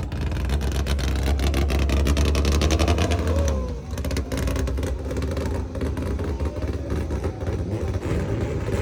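Car engine accelerating hard, a loud deep exhaust drone with a falling pitch that drops away about four seconds in, leaving rougher engine noise running on.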